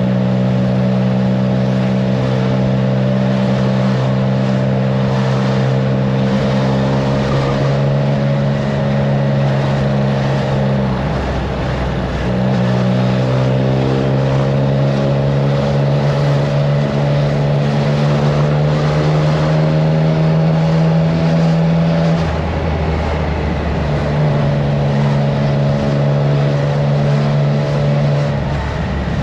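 Triumph Trident 660's inline three-cylinder engine through a FireTong aftermarket exhaust, running at steady cruising revs while riding, with wind noise on the microphone. The engine note drops away briefly about a third of the way in, again about two-thirds in and near the end, each time picking back up.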